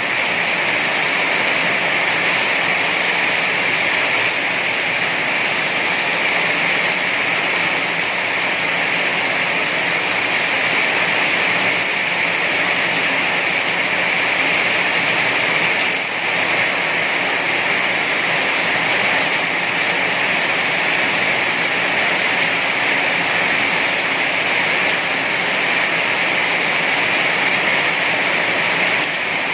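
Heavy rain falling steadily: a dense, even hiss with no separate drops or thunder.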